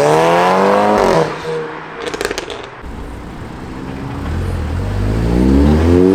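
Car engine revving up hard, its pitch rising, then cutting off about a second in. After a quieter gap with a few light clicks, the engine builds again in a second long, steadily rising pull over the last few seconds.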